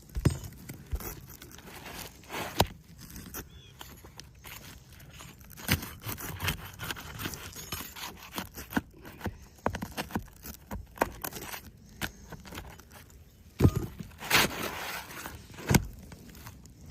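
Footsteps and scraping on a shingle roof, with sharp knocks scattered through.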